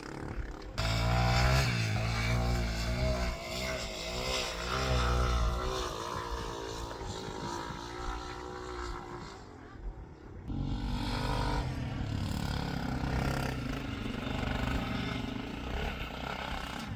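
Motorcycle engine running while being ridden, its pitch rising and falling with the throttle. About ten seconds in the sound changes abruptly to a steadier engine note.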